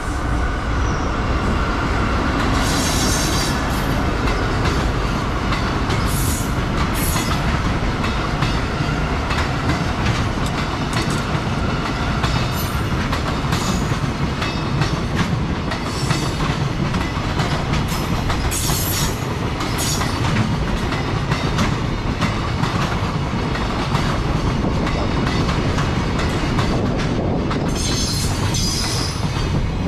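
Container freight train of Koki flatcars, hauled by an EF65 electric locomotive, rolling past: a steady loud rumble with wheels clattering over rail joints. Brief high wheel squeals come several times, about three seconds in, around six to seven seconds, at sixteen and nineteen seconds, and near the end.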